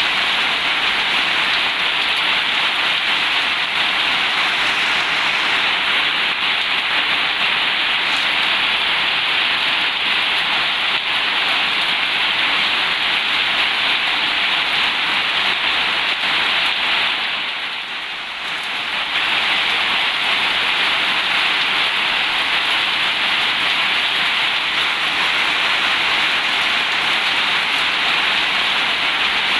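Heavy rain falling as a steady, even hiss, briefly softening for about two seconds a little past the middle.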